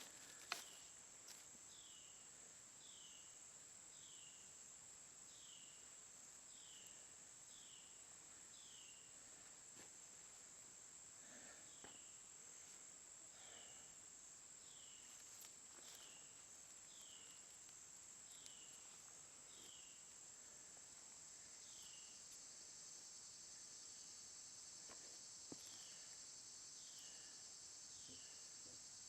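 Faint outdoor ambience: a steady high-pitched insect chorus, with a short falling note repeated roughly once a second through most of it, and a single sharp click just after the start.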